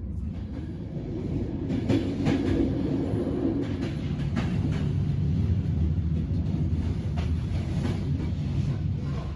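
Passenger train running along the rails, heard from inside the carriage. A steady low rumble is broken by irregularly spaced clacks as the wheels pass over rail joints.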